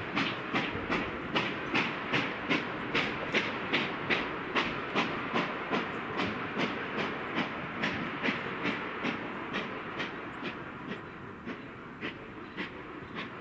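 Narrow-gauge steam locomotive working under steam, its exhaust chuffing in a steady rhythm of about two and a half beats a second over a steam hiss. The chuffs grow gradually fainter as the train moves away.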